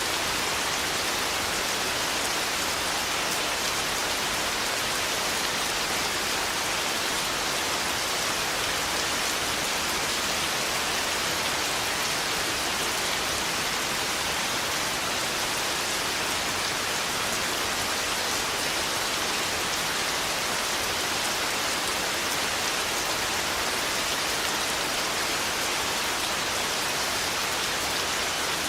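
Steady rain from a storm, an even hiss of water falling on surfaces, with no thunderclaps.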